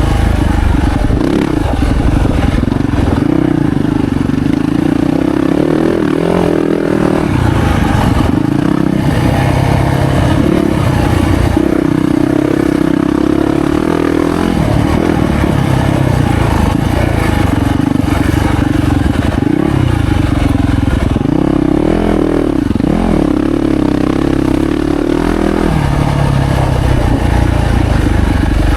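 A 2025 Yamaha YZ450F's four-stroke single-cylinder engine running hard as the bike is ridden. The pitch rises and falls with the throttle, most clearly a few seconds in and again about two-thirds of the way through.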